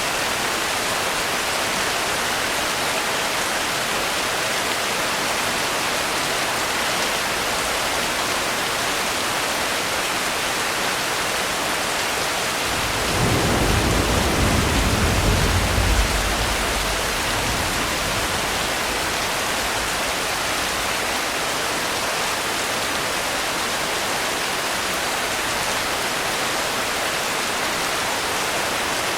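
Steady heavy rain hiss, with a deep roll of thunder rumbling for about five seconds around the middle and fading away.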